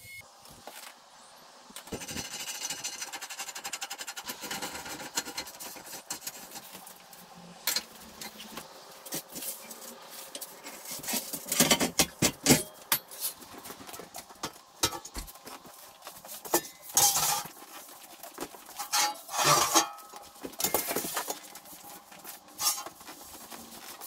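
Metalworking sounds: a stretch of hiss with faint steady tones, then a string of sharp metallic clanks and knocks, loudest around the middle and again a few seconds later.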